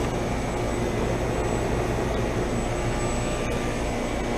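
Residential heat pump outdoor units running in heat mode: a steady rush of air with a low compressor hum underneath.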